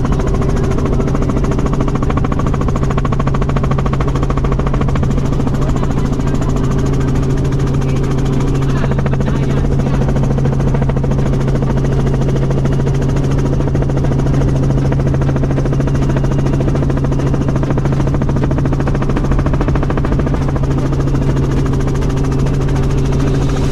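Helicopter engine and rotor running at a steady pitch: a loud, even drone with a strong low hum that does not change.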